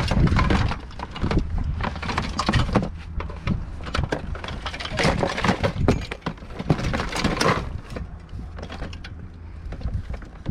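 Hard objects clattering and knocking together as a pile of household junk and scrap is rummaged through, a dense run of irregular clicks and rattles over a steady low hum.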